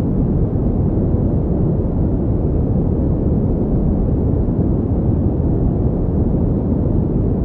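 Pink noise: a steady, unchanging deep hiss with its weight in the low range and little at high pitches.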